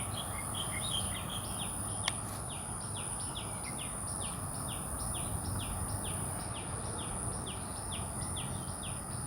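A bird calling with short, high, falling chirps repeated a little over twice a second, over a steady thin high whine and a low outdoor rumble; a single sharp click about two seconds in.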